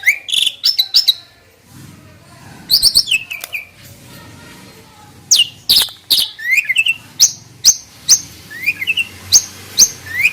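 Starling-family birds (jalak) calling in quick groups of sharp clicks, high whistles and rising chirps. There is a short pause early on, and the calls grow denser in the second half, with rising chirps about twice a second.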